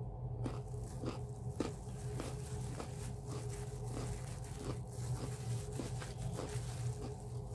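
Close-up chewing: wet mouth clicks and smacks about twice a second as food is chewed, over a steady low hum.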